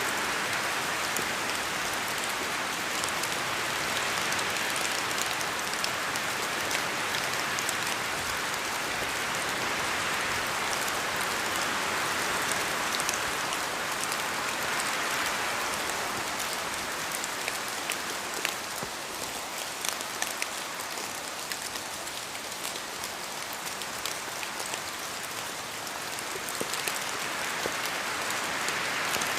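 Steady rain falling in a forest: a dense hiss with fine ticks of individual drops. It eases a little past the middle and swells again near the end.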